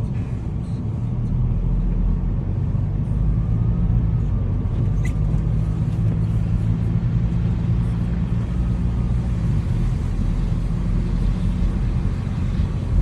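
A car's engine and road noise heard while driving: a steady low rumble, with a single sharp click about five seconds in.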